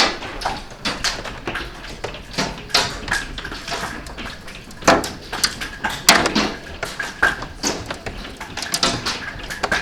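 Hailstones striking hard surfaces in a dense, irregular clatter of sharp hits, with two heavier strikes about five and six seconds in.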